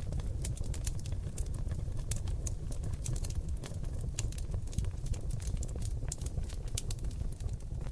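Seasoned oak logs crackling in a fireplace: irregular sharp pops and clicks, several a second, over a steady low rumble of the burning fire.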